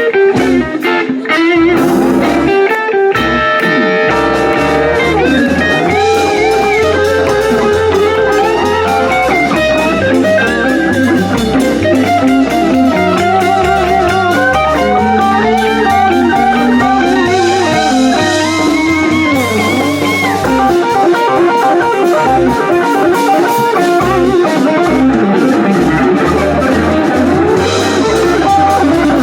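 Live band playing an instrumental blues-rock passage: electric guitar carries the melody with wavering, bent notes over a walking bass line and drums.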